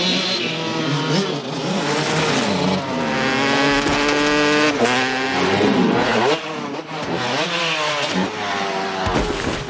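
Several dirt-bike engines revving hard during a race, their pitch climbing and then dropping off again and again as the riders accelerate and change gear. A short low thump comes near the end.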